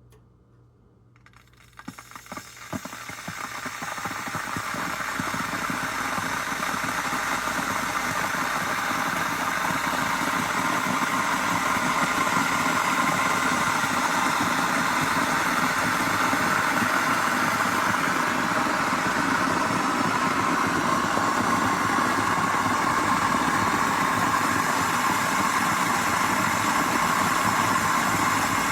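Elite Gourmet EKT8717 glass electric kettle heating water: a few clicks about two seconds in, then a rushing hiss and rumble that builds over several seconds and holds steady.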